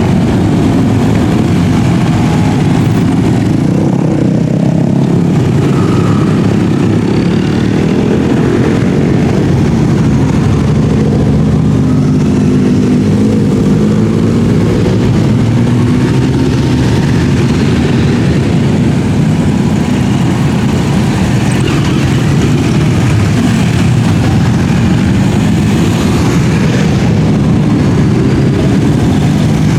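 A stream of many motorcycles riding past, their engines overlapping in a continuous loud drone, with individual engine notes rising and falling as bikes rev and pass.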